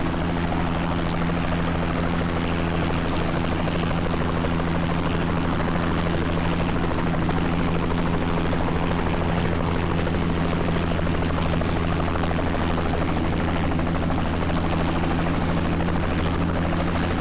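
Helicopter running nearby, a steady, unbroken rotor and engine sound with a constant low hum.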